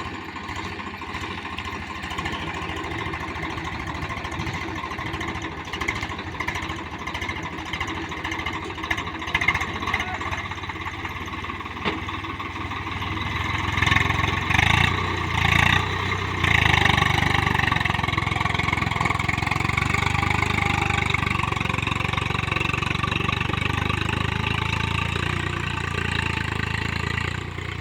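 Swaraj 744 tractor's diesel engine running, revved hard in three surges about halfway through, then held at high revs until it drops back near the end.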